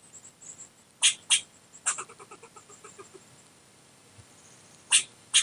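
An animal's calls: a few loud, sharp strikes, two about a second in and two near the end, with fast runs of short, squeaky pulses between them.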